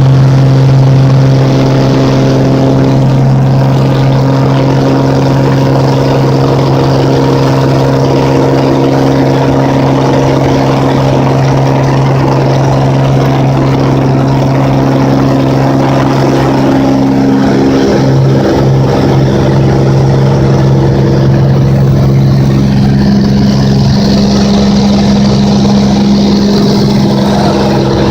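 Cessna 206's piston engine and propeller running at high power, a loud, steady drone. About two-thirds of the way through, the pitch of the drone shifts.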